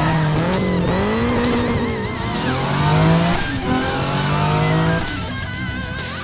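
Race car engine sound effects revving up and down in pitch, over background music. The engines drop away about five seconds in, leaving the music.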